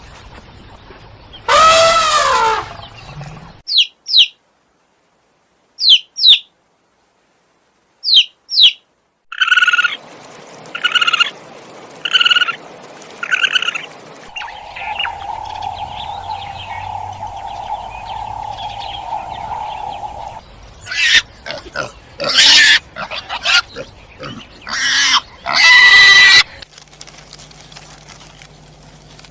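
A string of short animal calls from different animals: a falling call near the start, a few brief high chirps, then five calls about a second apart, a steady tone lasting several seconds, and more calls near the end.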